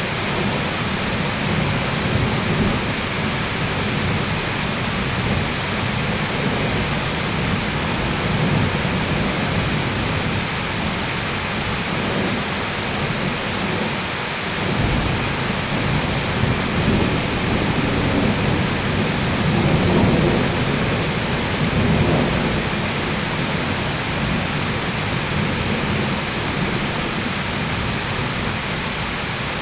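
Heavy rain hissing steadily while thunder rumbles low underneath. The rumble swells, deepening about fifteen seconds in and reaching its loudest around twenty seconds in.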